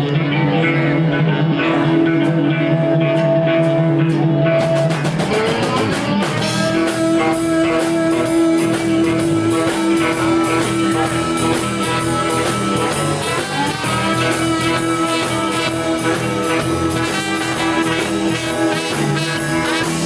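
Live blues-rock band playing the instrumental intro of a song: a guitar-led groove, with the drums and the full band coming in fuller about five seconds in.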